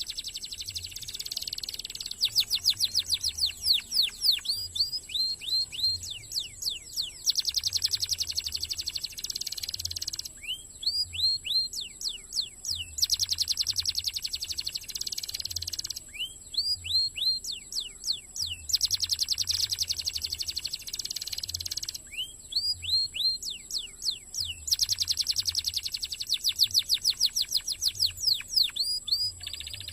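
Domestic canary singing a long, fast song of rolling trills and rapidly repeated sweeping notes, phrase after phrase with only short pauses between them.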